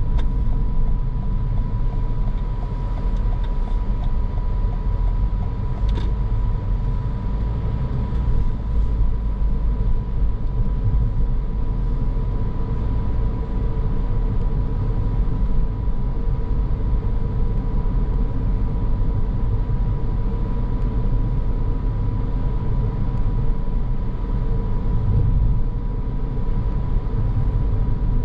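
Car driving: steady road and engine noise, low and even, with a thin steady high tone running through it and a single brief click about six seconds in.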